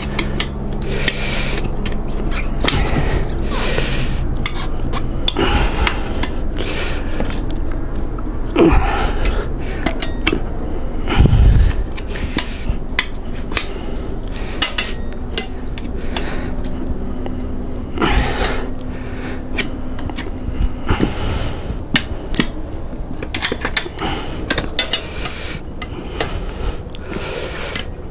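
Steel tyre levers clinking and scraping against a dirtbike wheel rim as the tyre bead is pried off, a run of irregular clinks and scrapes.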